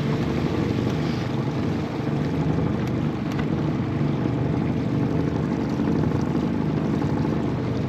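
Motorboat engine running steadily with a low, even drone; the sound drops away right at the end.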